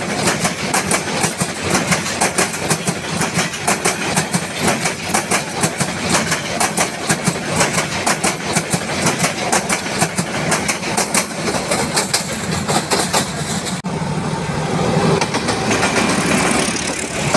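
Passenger coaches of a Bangladesh Railway intercity train passing close by, wheels clattering rapidly and rhythmically over the rail joints. About fourteen seconds in, this gives way abruptly to the steadier, lower running of a diesel locomotive hauling coaches.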